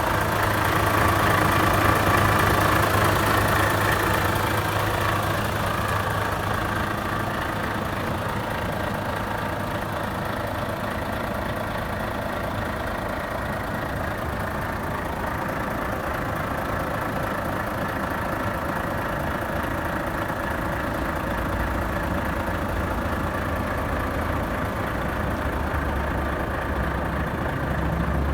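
Volvo FH500 tractor unit's 13-litre six-cylinder diesel engine idling steadily, a little louder for the first few seconds.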